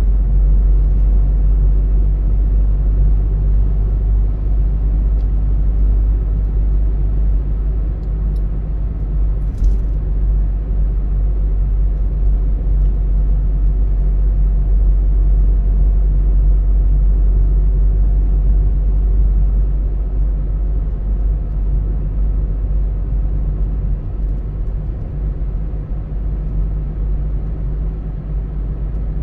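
Car driving along a road: a steady low rumble of engine and tyre noise, easing slightly in loudness near the end.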